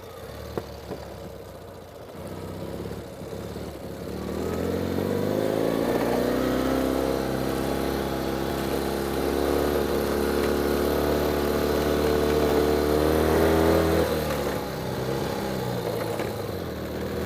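Ural motorcycle's flat-twin engine pulling under load up a steep climb. The revs build over the first few seconds, hold steady, then ease off near the end.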